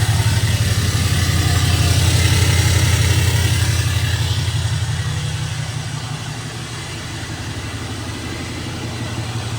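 Pickup truck engine running at idle just after start-up. The idle eases down slightly about five seconds in and settles into a steady, healthy-sounding run.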